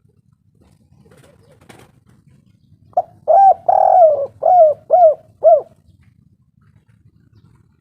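Spotted dove (tekukur) cooing: about three seconds in, a run of about seven short coos, with one longer note in the middle.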